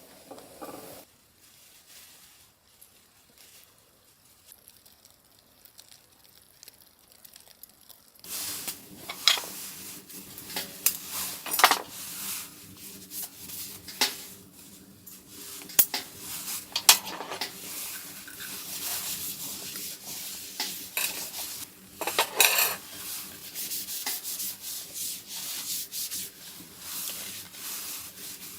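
Quiet for the first several seconds, then from about eight seconds in, a stretch of rubbing and scraping with sharp clicks and clinks, like cookware and a utensil being handled over a faint sizzle.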